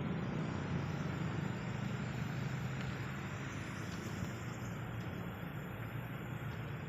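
Heavy diesel machinery running steadily: an even, low engine drone with no revving or impacts.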